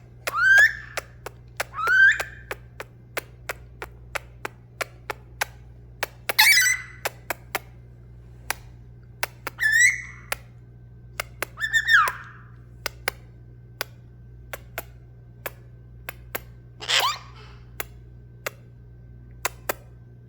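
A parrot giving six short whistled calls, each sliding up or down in pitch, spread through the stretch. Underneath runs a steady series of sharp ticking clicks, about two to three a second, and a low steady hum.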